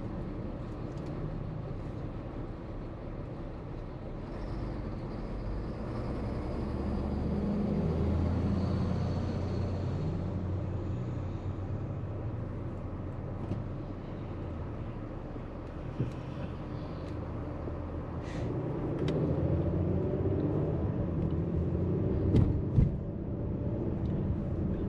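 A car driving along a road, heard from inside the cabin: a steady engine and tyre rumble that swells twice, with a few sharp knocks near the end.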